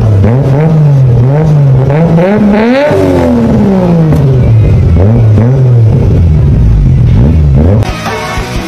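Car engine being revved over and over, its pitch rising and falling in quick blips, with one longer climb about three seconds in before it drops back. Music takes over near the end.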